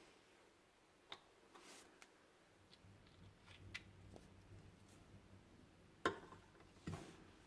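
Faint, irregular clicks and taps over near silence, with a sharper knock about six seconds in and another just before the end; a faint low hum comes in about three seconds in.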